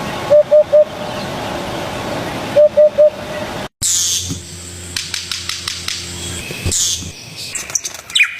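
Bird calls: a short three-note call repeated twice over a hissing background. It then cuts abruptly to a different recording of high, quick sweeping notes and clicks.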